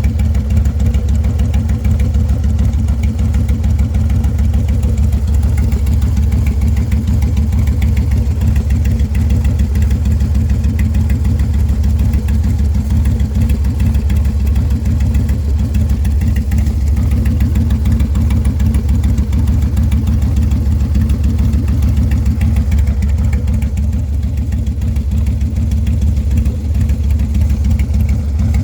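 Harley-Davidson FXDLS Low Rider S's 110-cubic-inch V-twin idling steadily through a Sawicki Speed two-into-one exhaust.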